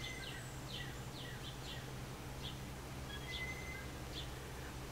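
Faint birds chirping: scattered short high chirps and a couple of brief whistles, over a steady low hum.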